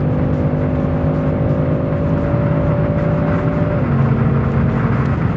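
Kia Stinger's 3.3-litre twin-turbo V6 accelerating hard on a straight. Its engine note holds steady, then drops in pitch a little before four seconds in as the 8-speed automatic shifts up.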